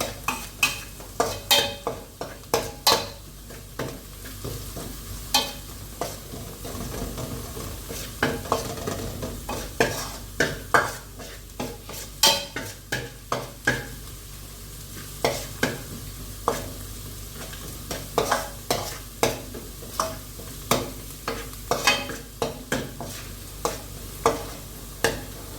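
A spoon or ladle stirring chicken pulimunchi as it fries in a pot, with irregular scrapes and knocks against the pot over a steady sizzle.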